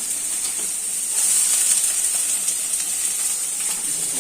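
Food sizzling in a hot pan while poha is being cooked: a steady hiss that gets a little louder about a second in.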